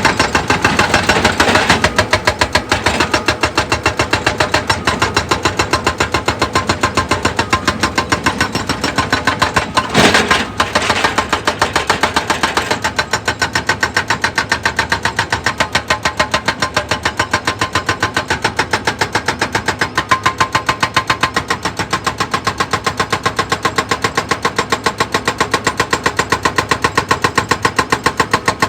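Heavy machinery running with a steady, fast pulsing beat. Crunching noise lies over it for the first dozen seconds, with a sharp crack about ten seconds in.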